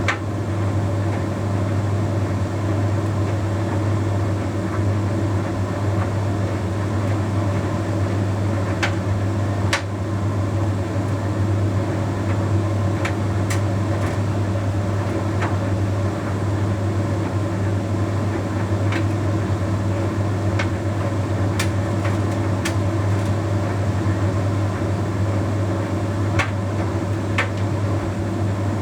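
Bosch Series 6 heat pump tumble dryer running mid-cycle: a steady low hum of its motor and drum, with occasional light clicks as the load tumbles.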